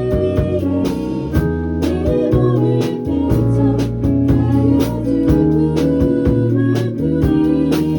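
A band playing an instrumental jazz-tinged passage of a song, with guitar and drums keeping a steady beat.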